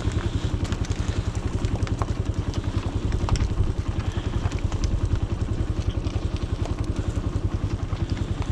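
A small engine idling steadily, with a fast, even low pulse. A few light clicks and knocks sound over it.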